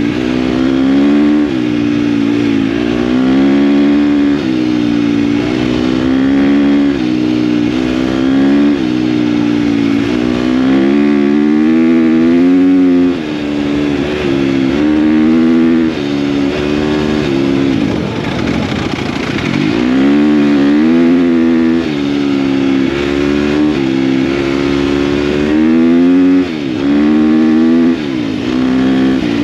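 KTM dirt bike engine under way, revving up and dropping back again and again as the throttle opens and closes through the gears, with a longer easing off a little past the middle before it pulls up again.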